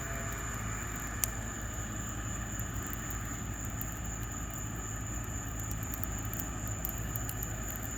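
Backyard bonfire of wood and cut grass burning: a steady low rumble with a few faint crackles and one sharper pop about a second in, over a constant thin high whine.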